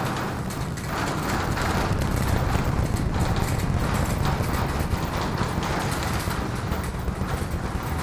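Rumble and crackle of the Super Heavy booster's 33 Raptor engines climbing after liftoff, heard from the ground as a steady rattling roar.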